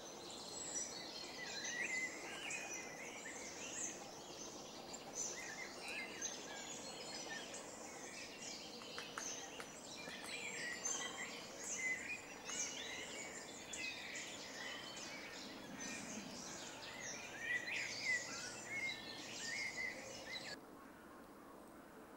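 Many small songbirds chirping and singing together in a dense chorus of high, short notes, cutting off abruptly near the end.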